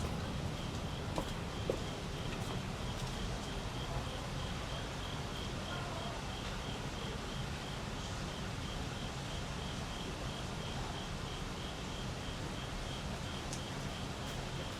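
An insect, most likely a cricket, chirping steadily in a high, even pulse about two to three times a second, over a steady low background rumble.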